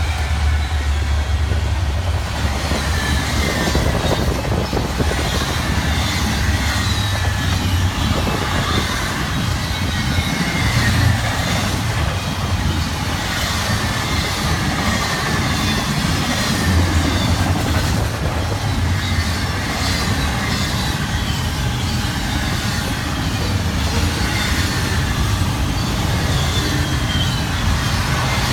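Railroad cars rolling steadily past, the steel wheels grinding along the rail with repeated falling squeals over a constant low rumble.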